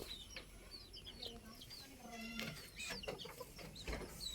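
Bird calling, locally called the cetoh bird: a quick series of short, high chirps, with some lower calls mixed in.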